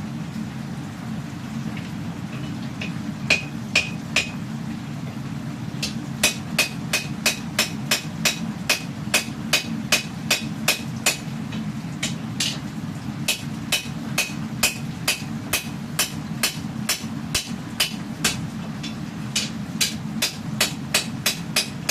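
Hammer striking a katana blade on the anvil during forging, a few blows about three seconds in, then a steady run of about two ringing blows a second with short breaks. A steady low rumble runs underneath throughout.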